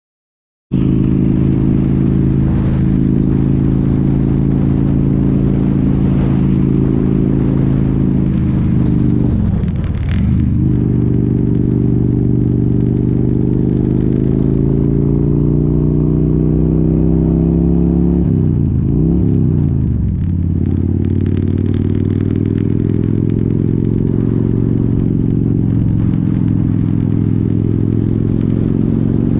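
Touring motorcycle's V-twin engine running under way. Its note climbs slowly as it accelerates, then drops and picks back up twice, about ten and about nineteen seconds in, as it shifts gear.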